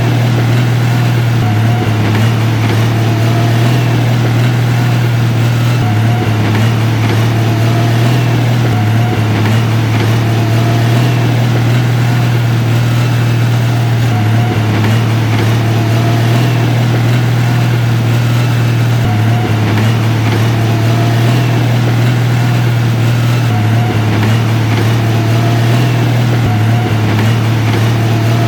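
Heavy diesel engine of earthmoving equipment running steadily with a deep, constant drone, with a faint higher note that recurs about every two seconds.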